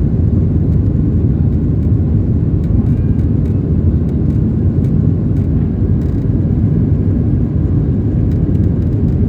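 Steady low roar inside the cabin of a Boeing 737-800 in flight: its CFM56 turbofan engines and the airflow over the fuselage.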